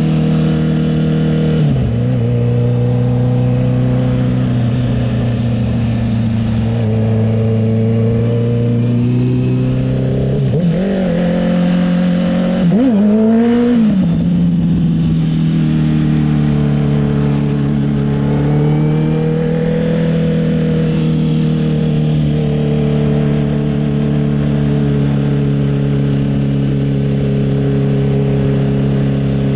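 Honda CB650R's inline-four engine through an aftermarket CS Racing exhaust, running steadily while riding. The pitch drops about two seconds in. Near the middle there are two quick revs that rise and fall, the second one the loudest. After that the engine settles back to a steady cruise.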